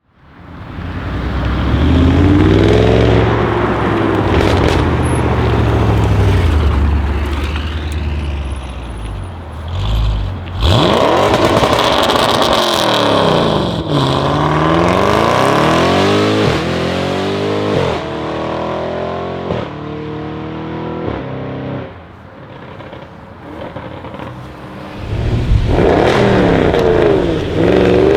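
Audi RS6 C7's twin-turbo V8 through a decatted Milltek exhaust, loud, revving and accelerating, its pitch rising and falling again and again. It eases off for a few seconds after the middle, then turns loud again near the end.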